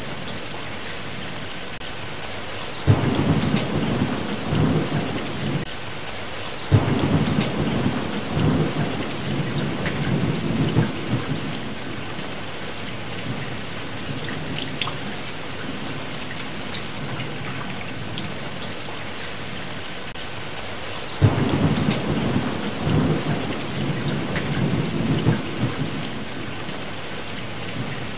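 Steady rain with three rolls of thunder. Each begins with a sudden crack, about three seconds in, about seven seconds in and about twenty-one seconds in, and rumbles on for several seconds.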